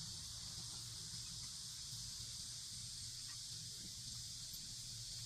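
Steady ambient background: an even high-pitched hiss over a low hum, with no distinct sounds.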